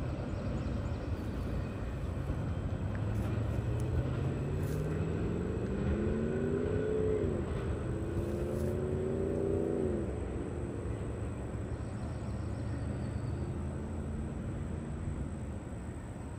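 A road vehicle's engine accelerating through the gears. Its pitch climbs, drops at a shift about seven seconds in, climbs again and drops near ten seconds, then holds and fades, over a steady low rumble.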